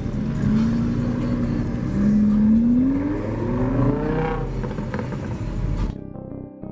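A car engine accelerating. Its pitch holds steady, then rises twice in quick succession, the second rise climbing higher. Near the end it cuts off and music begins.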